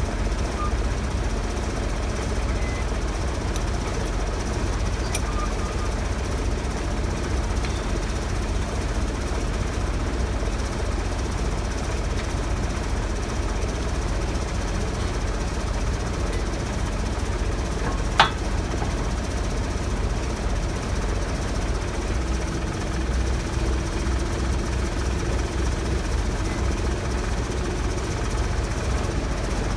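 A diesel engine running steadily at idle, with a fast, even clatter. There is a single sharp metallic click about 18 seconds in.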